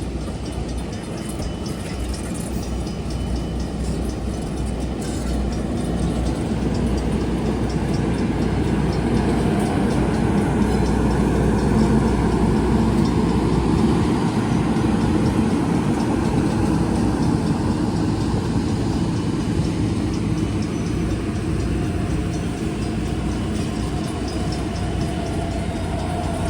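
Train rolling by with a steady, heavy rumble that builds over the first dozen seconds and then eases off slightly.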